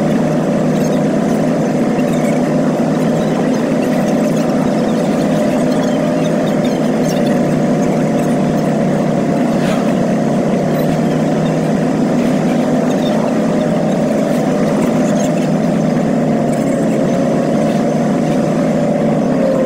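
Vehicle engine droning at a steady pitch while cruising at constant speed, heard from inside the cabin.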